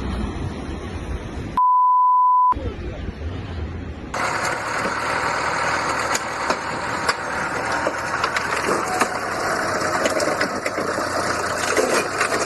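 Car engine and road noise picked up by a dashcam, cut off about a second and a half in by a steady, high-pitched censor bleep lasting about a second. After about four seconds the sound changes to a steady hiss of road and wind noise with scattered clicks.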